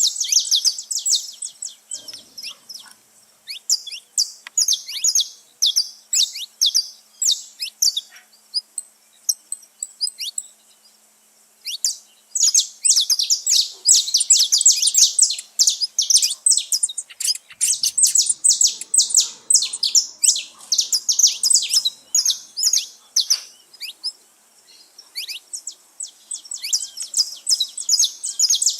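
A group of saffron finches chirping and singing in dense, rapid, overlapping high chirps, with two brief lulls.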